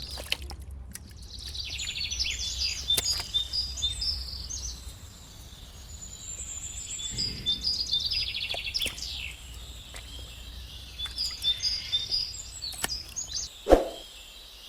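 Small birds chirping and trilling repeatedly in short high phrases, with a faint low hum underneath for the first half and a sharp knock near the end.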